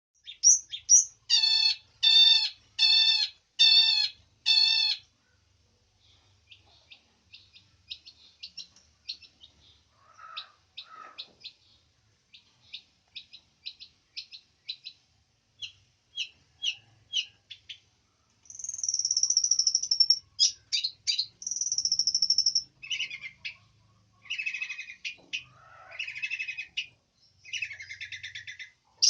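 Long-tailed shrike (cendet) singing a varied song. It opens with five loud, evenly spaced calls, moves into soft, quick twittering, and turns to loud whistles and rasping notes in the second half.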